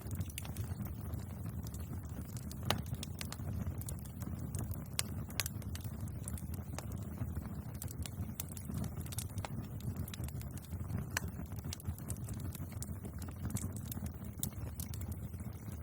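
Wood bonfire burning, with sharp irregular crackles and pops of the burning wood over a steady low rumble of the flames.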